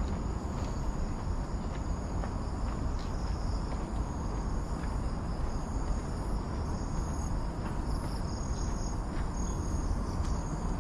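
Forest insects trilling steadily in high pitch, with short high chirps joining in over the second half, over a steady low rumble.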